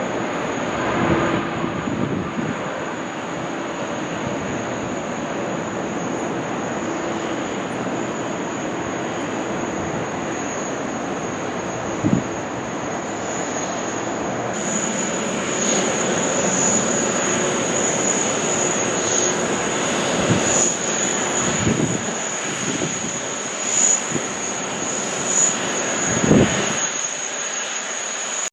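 Jet airliner engines running with a steady rushing noise and a high whine that grows stronger about halfway through, with a few brief thumps.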